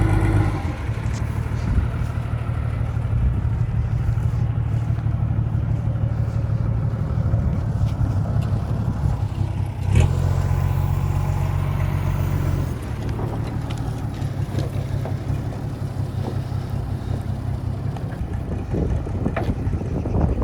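A vehicle engine running steadily with a low hum that steps up in pitch about ten seconds in and drops back near thirteen seconds.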